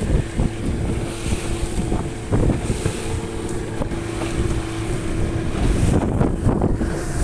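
Strong gusty wind buffeting the microphone, with a faint steady hum underneath that fades out about two thirds of the way through.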